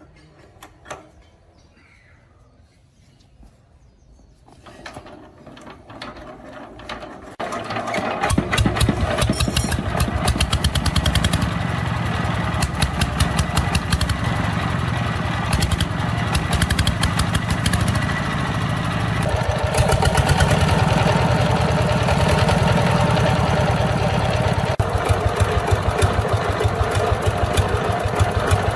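Restored single-cylinder diesel engine starting up: a few seconds of rising sound, then it catches about seven seconds in and runs steadily with a fast, even knocking beat.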